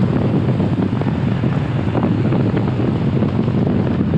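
Wind buffeting the microphone of a helmet-mounted action camera on a moving motorcycle: a steady, loud, low rush that covers the riding noise underneath.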